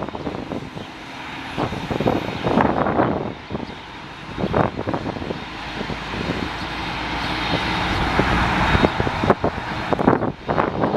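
Airliner engines growing louder as the aircraft passes, a broad rushing noise that swells over several seconds and then falls away abruptly about two-thirds of the way through. Irregular low thumps of wind buffeting the microphone run through it.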